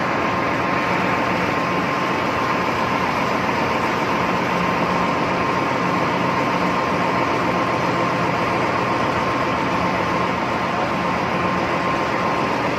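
Steady, loud machinery noise of a ship's engine room, with a constant high tone running through it.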